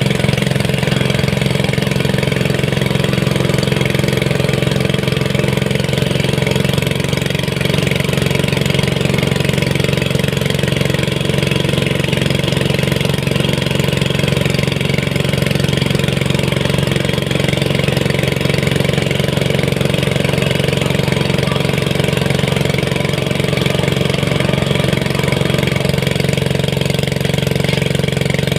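Small engine running steadily at a constant speed, with a slight change in its tone about seven seconds in.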